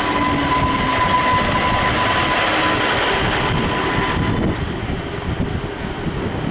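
D-Train diesel multiple unit, the converted ex-London Underground D Stock, running along the platform at close range: steady running noise of wheels and running gear on the rails with a thin high squeal. The noise eases a little about four and a half seconds in as the rear car goes past.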